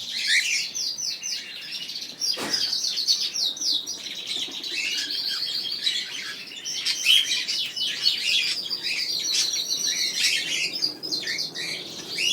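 A crowd of aviary birds, canaries and cockatiels among them, chirping and singing all at once in a dense, busy chorus of quick overlapping twitters and trills. A brief knock sounds about two and a half seconds in.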